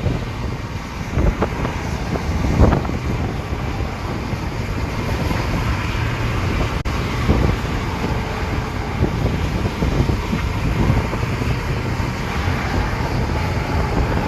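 Steady wind noise on the microphone over a low vehicle rumble, with a couple of knocks in the first three seconds.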